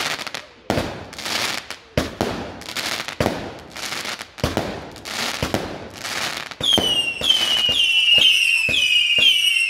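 Fireworks going off in quick succession: sharp bangs with crackling bursts, then from about seven seconds in a rapid series of shrill whistles, each falling slightly in pitch, louder than the bangs before them.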